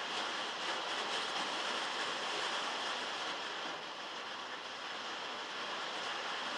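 Heavy rain pattering steadily on metal, heard from inside a shed as a dense, even hiss.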